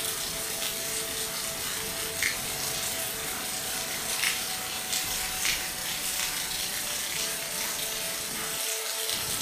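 Steady rain hiss with a few sharper drop ticks, over faint steady humming tones.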